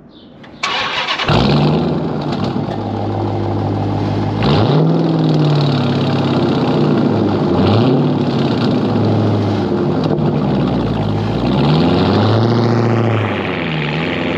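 2018 Dodge Challenger R/T's 5.7-litre HEMI V8 starting: the starter cranks briefly, the engine catches about a second in and settles into a loud idle. It is then revved several times, each rev a rise and fall in pitch, and the car moves off before the end.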